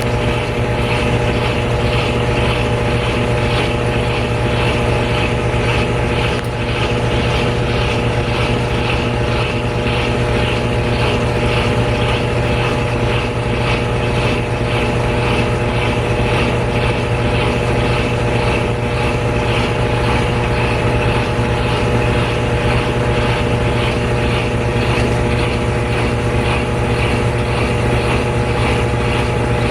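GE Spacemaker GUD24ESSM1WW laundry center's washer in its final spin, the drum running at steady speed with a constant motor hum and several steady tones.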